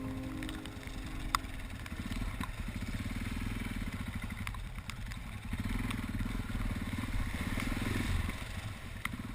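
Yamaha XT660Z Ténéré's single-cylinder four-stroke engine running at low speed with a pulsing exhaust beat. It picks up about two seconds in and again around six seconds in, then eases off near the end. There is a sharp click about a second in.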